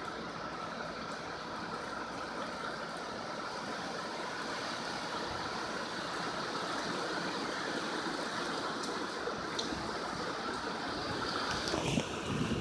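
Heavy hurricane rain and wind making a steady rushing noise, building slightly, with a brief louder burst of rumble near the end.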